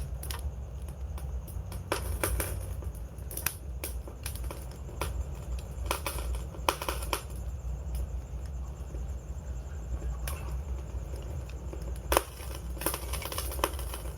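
Wood fire crackling and popping irregularly over a low steady rumble of the burning.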